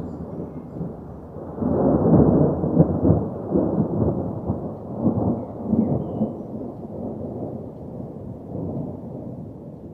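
A long rumble of thunder as an intro sound effect, swelling about a second and a half in with several surges, then slowly dying away.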